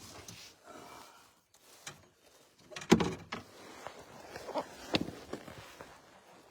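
Irregular knocks and clunks, as of gear being moved about in a small fishing boat. The loudest comes about three seconds in and another around five seconds in.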